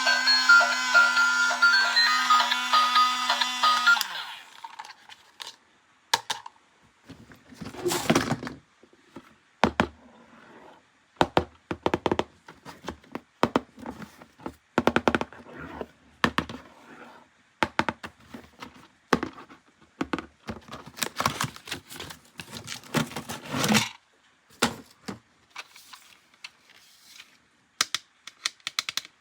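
A short electronic tune that cuts off about four seconds in, followed by irregular clicks, knocks and rustles of plastic toy parts and packaging being handled during an unboxing.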